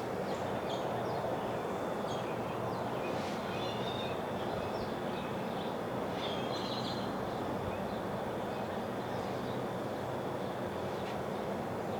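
Small birds chirping in short, scattered calls over a steady background rumble like distant traffic, with a thin, steady high-pitched tone running underneath.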